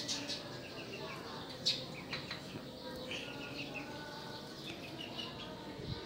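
Small birds chirping, short high calls scattered irregularly throughout.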